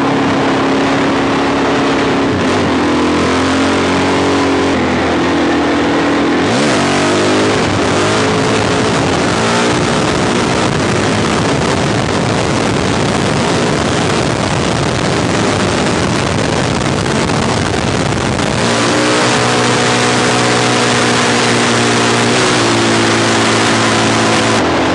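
Suzuki DRZ400 SM's single-cylinder four-stroke engine running under hard acceleration, its pitch shifting over the first few seconds. A loud rushing noise of wind on the microphone covers it from about six seconds in. Near the end the engine settles to a steady cruise.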